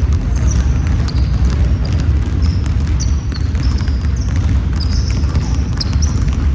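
Basketball game play on an indoor court: a ball bouncing and many short, high sneaker squeaks on the floor, over a steady low rumble.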